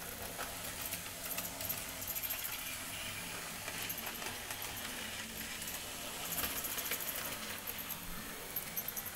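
Model railway train running on the track: a steady low hum with many small metallic clicks and rattles.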